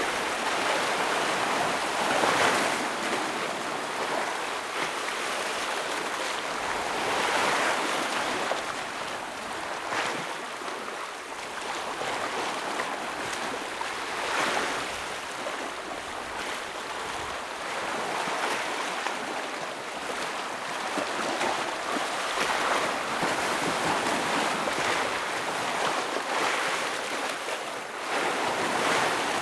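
Ocean waves breaking against a rocky shore: a steady wash of surf that swells into a louder surge every four or five seconds.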